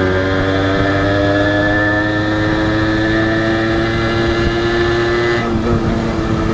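Honda H100S two-stroke motorcycle engine running under way, its pitch climbing steadily, then dropping sharply about five and a half seconds in before carrying on.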